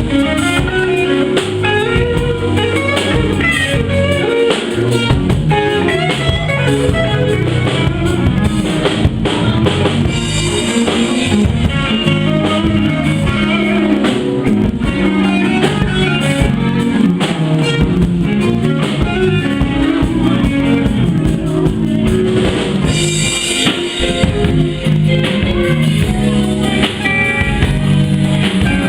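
Live blues band playing an instrumental passage, with guitar over a steady drum kit beat.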